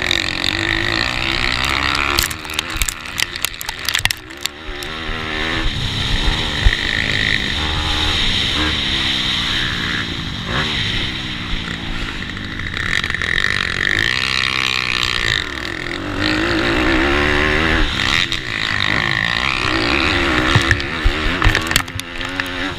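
Racing pitbike engines: small single-cylinder four-strokes, revs climbing hard then dropping over and over as the bikes shift, brake and accelerate through corners. A cluster of sharp knocks and crackles comes a few seconds in.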